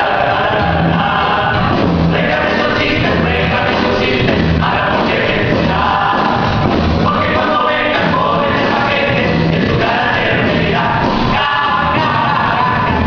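Live music with several voices singing together over a band, low bass notes repeating underneath.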